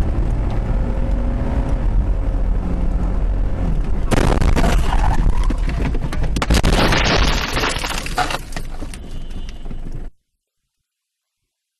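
Car crash caught on a dashcam: steady low road rumble, then a sudden loud crash about four seconds in and more loud crunching and shattering about two seconds later, before the sound cuts off near the end.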